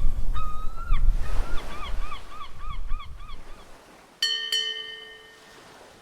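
Honking bird calls, a string of short rising-and-falling notes at about four a second, over a low outdoor rumble of wind or water. About four seconds in, a ringing tone is struck twice and fades away.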